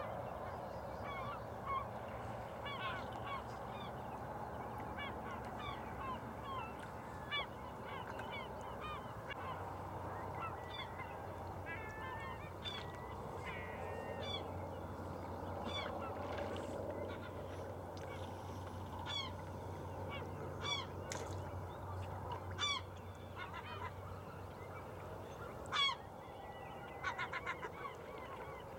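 Birds calling in many short, repeated notes throughout, over a steady low hum and background haze.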